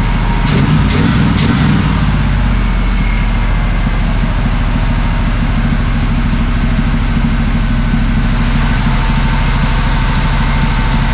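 1979 Camaro Z28's small-block Chevy V8 idling steadily on a freshly rebuilt Quadrajet carburettor, running on all eight cylinders after a tune-up. Three sharp clicks sound in the first second and a half.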